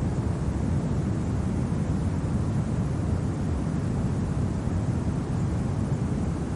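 Steady low rumbling wind of a winter ambience, even in level with no gusts, clicks or pitched tones.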